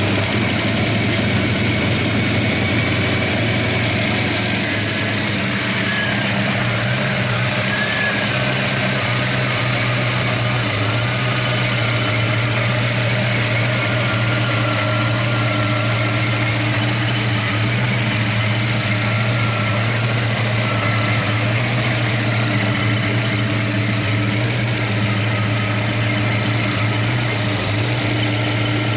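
The 1965 Ford Mustang Fastback's 302 cubic-inch V8 idling steadily just after starting.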